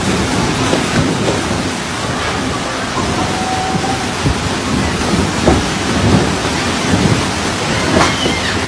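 Storm noise: heavy rain pouring down with strong wind, a loud continuous rush with repeated low rumbling gusts.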